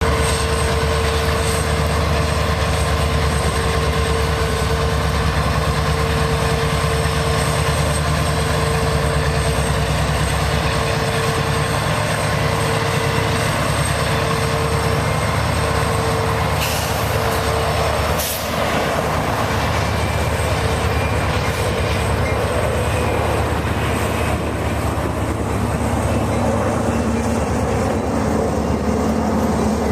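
CSX freight train led by an EMD SD70 two-stroke diesel locomotive rolling by, its engine running steadily under the rumble and rush of the cars on the rails, with two sharp clicks about 17 and 18 seconds in.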